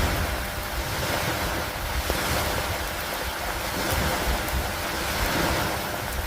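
Steady rain falling on a wooden dock and open lake water, an even hiss with a continuous low, wind-like rumble underneath.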